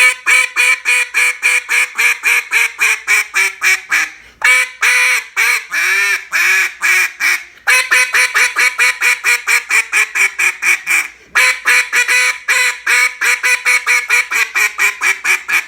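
Black River Duck Calls Tyrant single-reed duck call blown in fast, short pop notes, about five quacks a second. The notes come in four runs split by brief breaths, and the pitch drops as each run tapers off.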